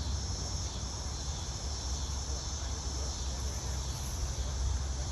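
Insects buzzing steadily in a high, even drone over a constant low hum.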